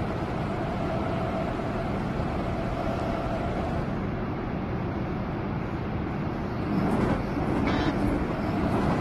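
Seoul Metro Line 2 subway train running between stations, heard from inside the car: a steady rumble of wheels on rail with a faint motor whine over the first few seconds, growing louder with a few clicks near the end.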